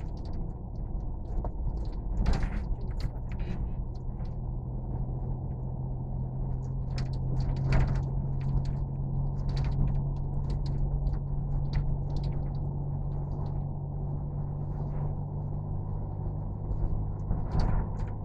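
A steady low mechanical hum holding a few fixed pitches, with scattered clicks and knocks over it.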